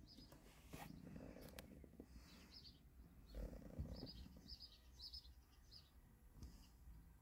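Near silence with faint bird chirps repeating from outside the car. There are soft rustles, with a sharp click about one and a half seconds in.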